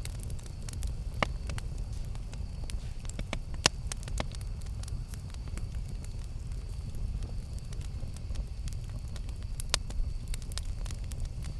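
Campfire crackling: irregular sharp pops and snaps over a steady low rumble, with the loudest pops a little over a second in, near four seconds and near ten seconds.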